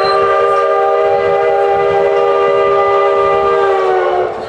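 Steam whistle of the Baldwin 2-8-2 locomotive ahead, sounding one long loud blast of several notes at once; it sags slightly in pitch and cuts off about four seconds in.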